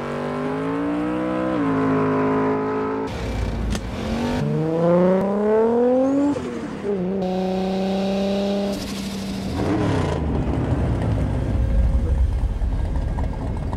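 Toyota Supra sports car engine revving: a steady note that drops once, then a long climb in pitch under hard acceleration, a short steady hold, and a rougher rumble in the last few seconds.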